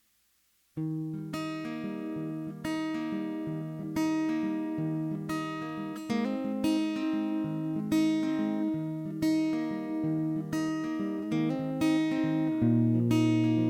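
Acoustic guitar playing a song's instrumental intro, starting just under a second in: notes plucked about once a second, each ringing out and fading over a bass line.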